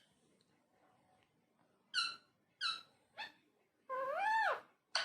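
Ringneck parrot calling: three short, high calls about half a second apart, then a longer call that rises and falls in pitch, and a brief chirp at the end.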